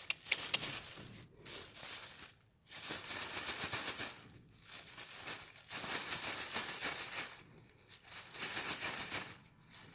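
A lorikeet worrying and chewing a crinkly object, making a crackling, crinkling rustle in about four bursts of a couple of seconds each, with short pauses between.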